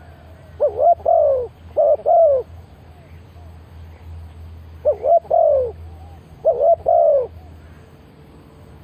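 Spotted dove cooing loudly in two pairs of phrases, one pair about a second in and the other about five seconds in. Fainter dove calls sound between them, over a low steady hum.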